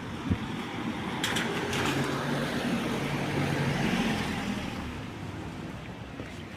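A car passing on a wet street: its engine hum and tyre hiss swell over a couple of seconds, then fade away.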